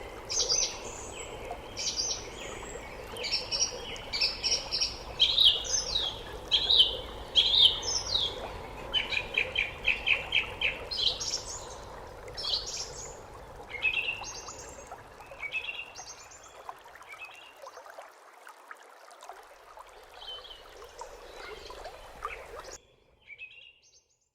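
Wild birds singing and calling in quick series of bright, high chirps and trills over a steady low background noise; the sound cuts off about a second and a half before the end.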